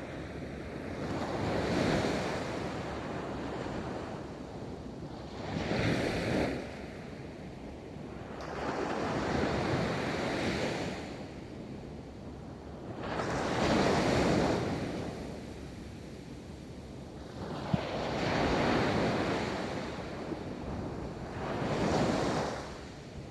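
Ocean waves rolling onto a beach, the surf swelling and falling back about every four seconds, six times. There is a single brief tick about two-thirds of the way through.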